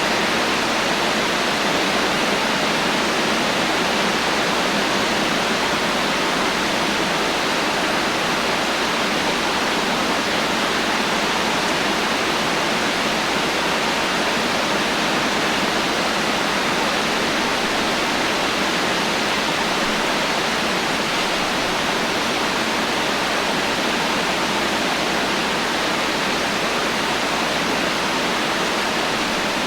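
Steady heavy rain: a dense, even hiss with no thunder and no single drops standing out.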